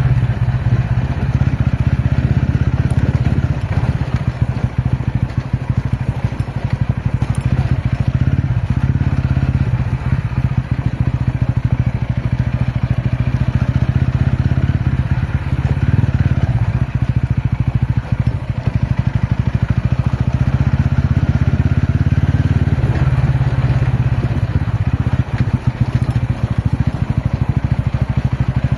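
TVS Ronin motorcycle's single-cylinder engine running at fairly steady low revs as the bike is ridden, its loudness wavering.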